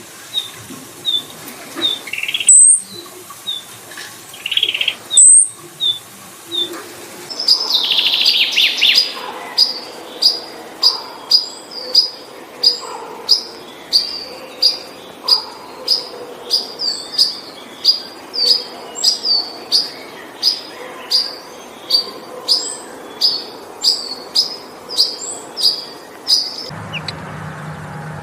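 Birds calling: small high chirps about twice a second, broken by a few sharper, louder calls. Then, from about a quarter of the way in, a loud, evenly repeated chirp at about two a second, which stops shortly before the end.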